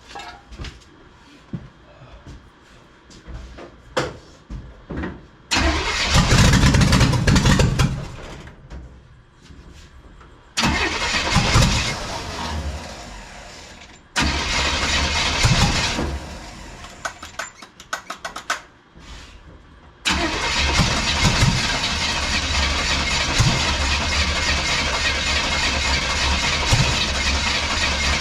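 Roller-cam small-block V8 race engine being started: after a few small clicks it fires up three times in short bursts that die away, then catches about twenty seconds in and keeps running steadily.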